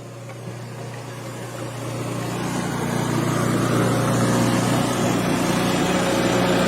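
An engine running steadily, growing louder over the first three or four seconds and then holding steady.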